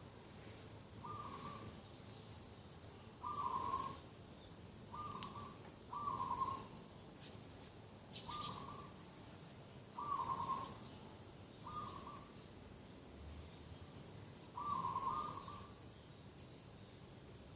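Doves cooing: short, low hooting notes repeated every one to two seconds, with a few brief high chirps from small birds in between.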